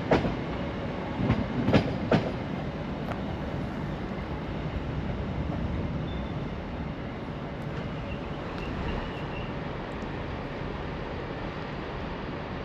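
A train running past on the rails, its wheels clacking over rail joints a few times in the first couple of seconds, then a steady rumble that slowly fades.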